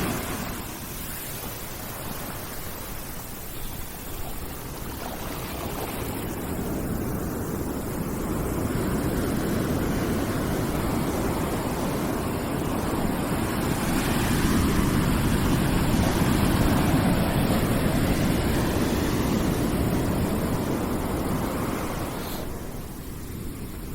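A white-noise track of deep, even rushing noise that swells and eases slowly over several seconds.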